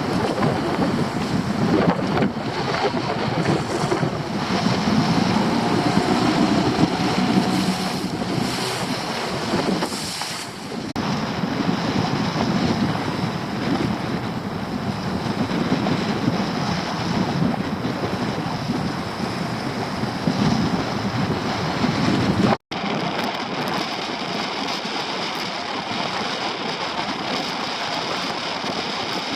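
Wind buffeting the microphone over the wash of the sea around a small boat. About 23 s in the sound cuts out for an instant and gives way to a steadier, even noise.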